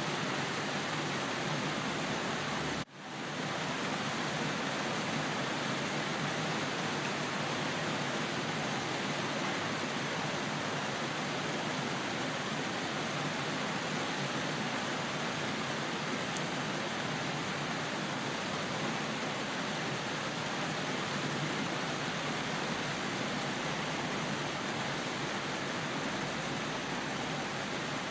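Steady rain: an even, dense hiss with no single drops standing out. About three seconds in it cuts out for a split second and comes back.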